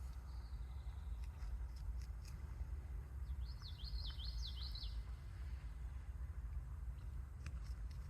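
A small bird sings a quick phrase of about six high, downward-sweeping notes in the middle, over a steady low outdoor rumble. A few faint clicks come and go.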